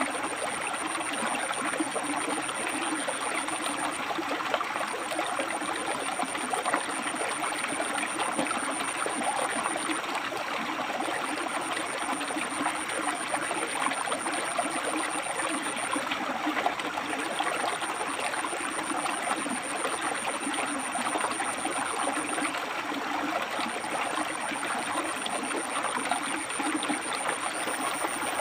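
River water rushing and splashing over rocks, a steady, even flow. A thin high-pitched tone sounds over it, breaking off briefly every five or six seconds.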